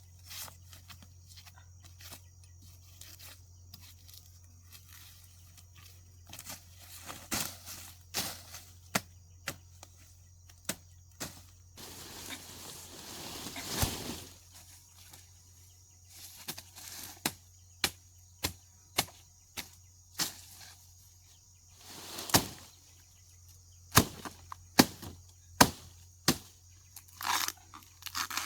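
Irregular sharp knocks and snaps, some loud, with a swell of rustling about twelve seconds in, over a steady low hum.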